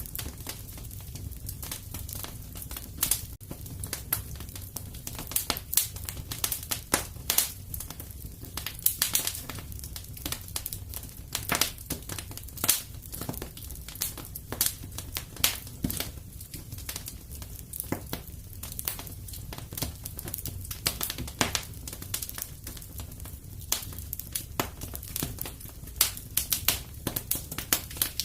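Wood fire crackling, with irregular sharp pops several times a second over a low steady rumble.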